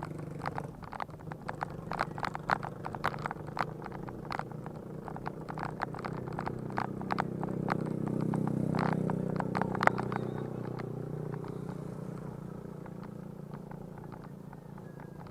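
Irregular clicking and rattling from a bike ride over rough ground, over a steady low rumbling hum. The hum swells to its loudest about two-thirds of the way in, then fades.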